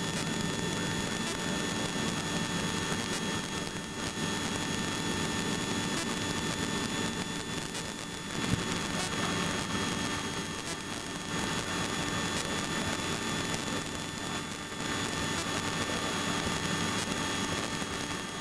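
Helicopter cabin noise in flight: the engine and rotor run steadily, with a constant high whine over the drone.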